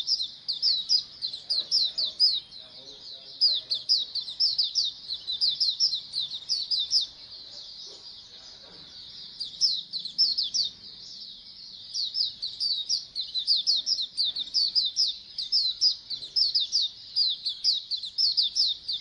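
A group of white-eyes (pleci) chirping together in quick high falling notes, several a second, overlapping one another. The chirping drops away for about two seconds near the middle, then resumes just as dense.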